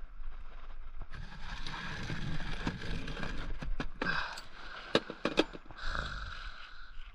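Wrench turning the nut on a homemade bearing press (carriage bolt, washers and sockets), steel grinding and scraping under load as it draws a bearing out of a swingarm linkage. Two sharp metal clicks come about five seconds in.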